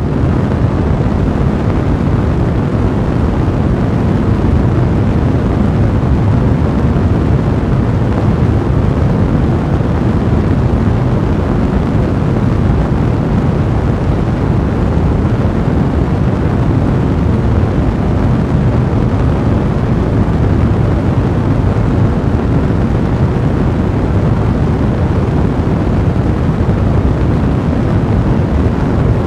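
A blazing fire: a steady, deep rushing sound of burning, even throughout.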